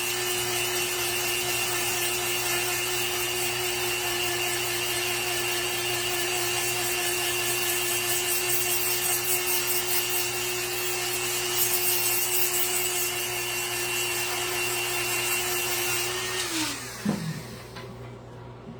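A handheld electric power tool runs at a steady high speed while shaping wood, with a high whine and a rough hiss. About 16 seconds in it is switched off and winds down.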